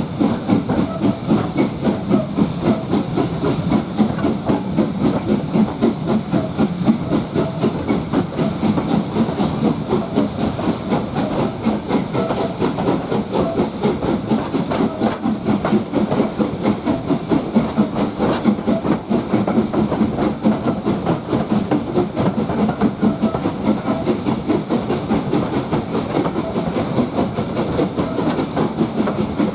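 Passenger train hauled by LSWR S15 class steam locomotive No 506 running along the line, heard from on board: a steady rumble with a fast, even beat and some steam hiss.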